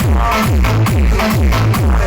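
Loud electronic dance music played through a DJ road-show sound system, with a heavy, fast bass beat and falling bass sweeps that repeat several times a second.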